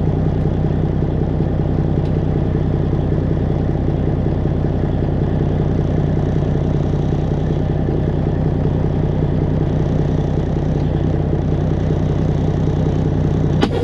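An engine idling steadily, a low even drone, with a sharp click near the end.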